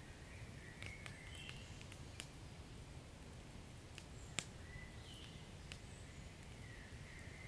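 Wood fire crackling quietly: scattered sharp pops and snaps over a low steady rumble of flames, with one louder pop a little past halfway. Faint soft hissing sounds come and go underneath.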